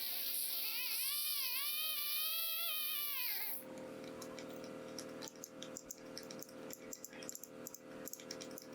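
Dental drill whining, its pitch wavering up and down as it works on the tooth, with a high hiss; it stops about three and a half seconds in. After that comes a quieter hiss with many small clicks and a faint steady hum.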